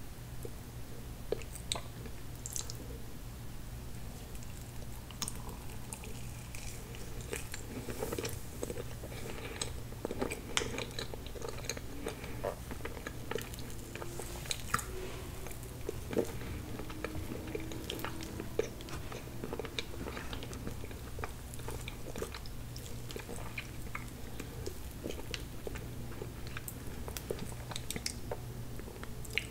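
Close-miked chewing of spoonfuls of tiramisu cake: soft, wet mouth sounds with scattered clicks and small crunches, over a steady low hum.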